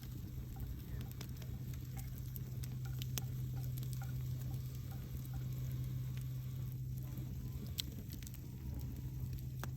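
Campfire burning, wood crackling with scattered sharp pops, over a steady low hum.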